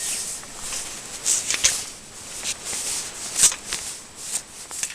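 Irregular light rustling and scuffing, a few soft scrapes a second, with no engine running.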